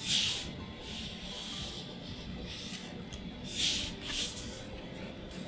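Magic: The Gathering cards and booster-pack packaging being handled, making short papery rustles: one at the start and two close together near the end.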